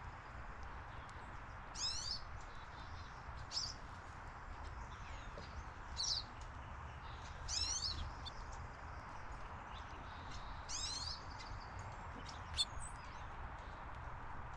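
A bird calling repeatedly: about six short, high-pitched calls, each made of a few quick notes, spaced one to three seconds apart, over a steady background hiss and low rumble.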